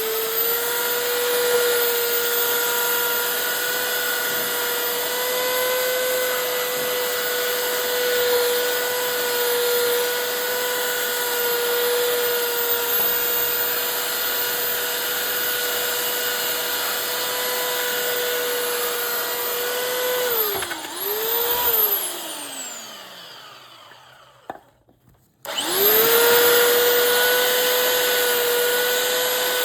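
A high-speed electric power tool running steadily with a high whine while working wood. It is switched off about two-thirds of the way through and winds down with a falling pitch, then is switched back on and spins straight back up to speed.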